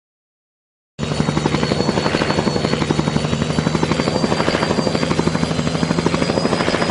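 Helicopter rotors running steadily, a fast even chop of the blades with a faint high turbine whine above it, cutting in after about a second of silence.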